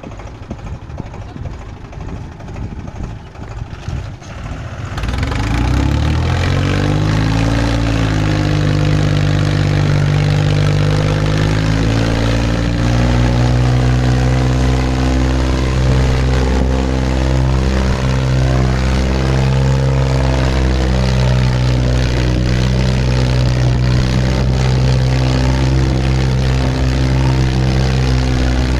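Tractor diesel engine revving up from a low, rough running about five seconds in, then held at high revs, running hard under load while pulling a trolley.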